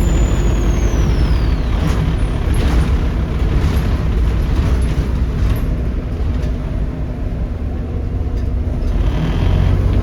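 Volvo D7C 7.3-litre diesel engine of a Volvo B7RLE bus, heard on board, with its turbocharger whistle falling away over the first two seconds as the engine comes off power. The engine runs low in between with some rattles. The turbo whistle starts rising again right at the end as it pulls away.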